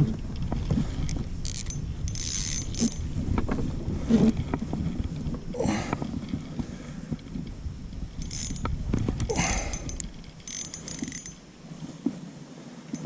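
Fishing reel working in several short bursts, its gears and clicking drag, while a hooked smallmouth bass is played on the line.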